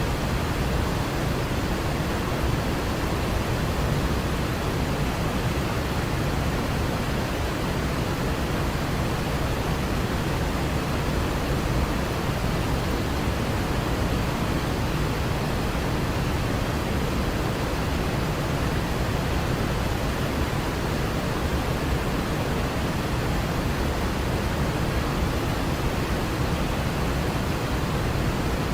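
Waterfall: falling water making a steady, unbroken rush, heaviest in the low end.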